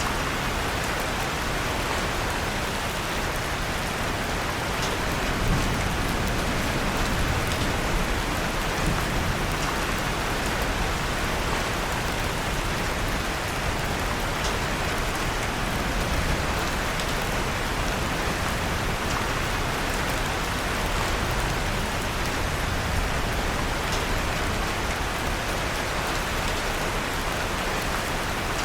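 Steady rain falling, an even hiss, with a few faint sharp crackles of a fireplace fire here and there.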